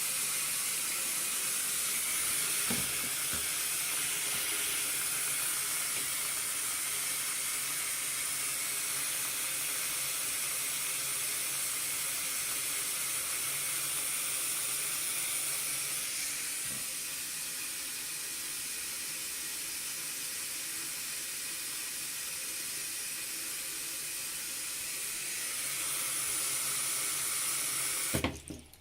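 Water running steadily from a tap, a continuous hiss that stops abruptly near the end.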